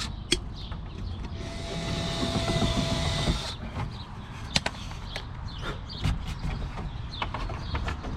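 A handheld power drill runs for about two seconds, starting a little under two seconds in, drilling holes for the rivets that hold a plastic rear diffuser. Scattered sharp clicks and knocks follow.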